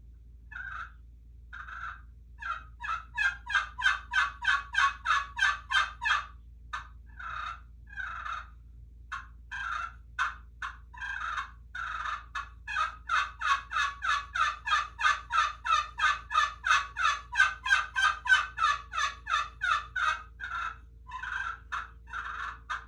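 Custom turkey pot call with a mammoth-tusk pot and a dinosaur-bone playing surface over a glass soundboard, played with a one-piece canary wood striker. It gives turkey calls as strings of short notes: a few single notes, then long fast runs of about four notes a second, with a break between the runs and slower notes near the end.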